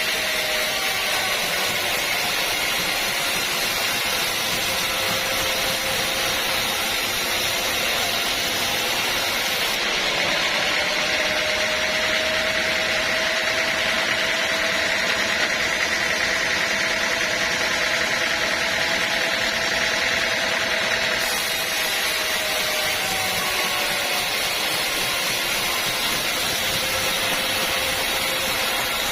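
Bandsaw sawmill running steadily, a continuous machine noise with a faint wavering tone.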